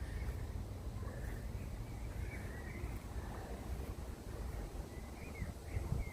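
Faint bird chirps, a few short calls in two clusters, about two seconds in and again near the end, over a steady low rumble.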